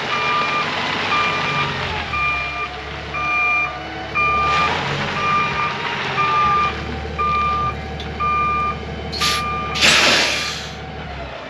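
Truck's reversing alarm beeping steadily at an even pace over a low engine hum, with short loud bursts of air hiss near the end.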